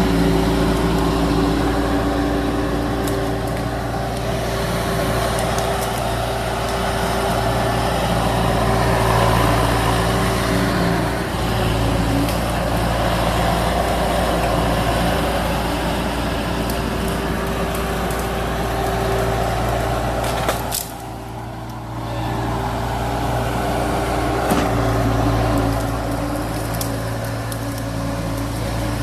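Skid steer loader's diesel engine running steadily as the machine works, with a brief drop in level about two-thirds of the way through.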